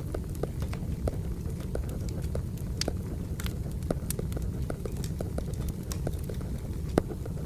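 Wood fire burning: a steady low rumble with irregular crackles and pops, and one loud sharp pop about seven seconds in.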